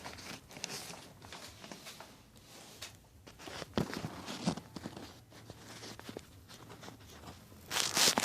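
Handling noise from refitting the bag on a Kirby vacuum cleaner: scattered light clicks and knocks with faint rustling, and a louder scrape near the end.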